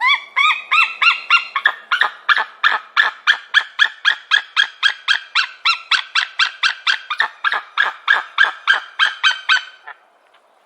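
A bird calling a rapid run of short, harsh pitched notes, about four a second, for nearly ten seconds, stopping shortly before the end.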